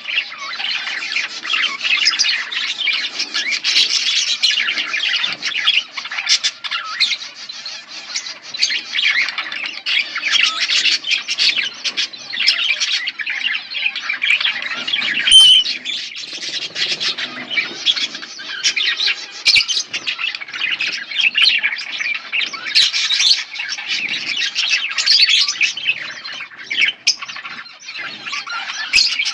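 A colony of budgerigars chattering and chirping nonstop, many birds calling over each other, with a single sharp click about halfway through.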